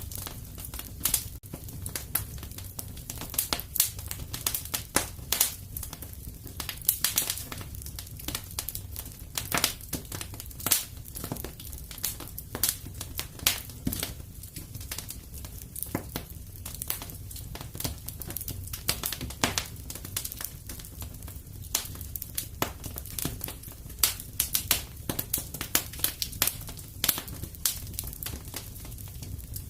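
Wood fire crackling in a fireplace: frequent sharp pops and snaps at irregular intervals over a steady low rumble.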